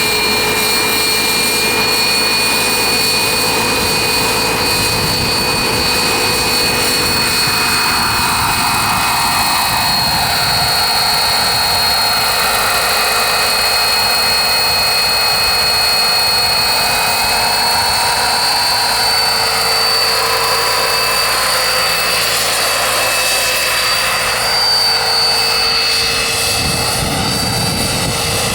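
Twin-shaft gas turbine of a radio-controlled model helicopter running with a loud, steady whistling whine over a rushing roar. The pitch drifts a little about eight seconds in and again near the end.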